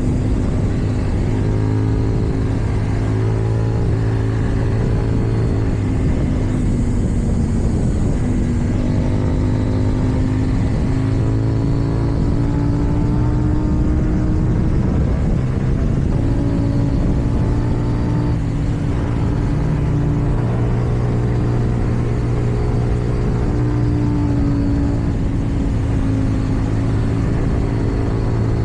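KTM 790 Duke's parallel-twin engine running through an Akrapovic exhaust, its note climbing slowly and dropping back several times as the throttle is worked.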